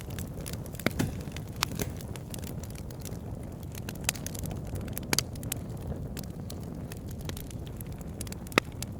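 Campfire burning with irregular crackles and sharp pops, the sharpest pop near the end, over a low steady rumble.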